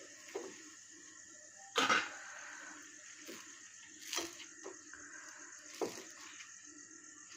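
Utensil knocking and scraping in a kuzhi paniyaram pan as the dumplings are turned and lifted: about six short sharp knocks, the loudest about two seconds in, over a faint steady hiss.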